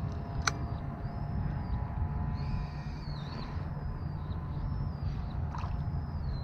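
Bird calls: a run of about six thin, high, arched notes, one after another, over a steady low rumble, with a single sharp click about half a second in.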